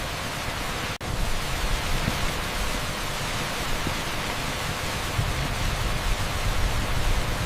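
Torrential rain pouring onto an asphalt street: a steady, dense hiss with no separate drops standing out. About a second in the sound drops out for an instant and comes straight back.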